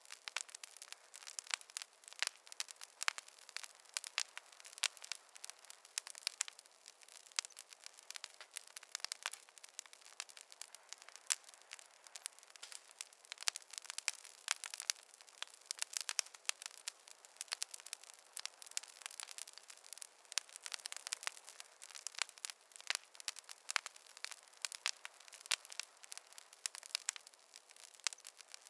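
Campfire crackling: a dense, irregular run of sharp pops and snaps over a faint hiss, with no low rumble.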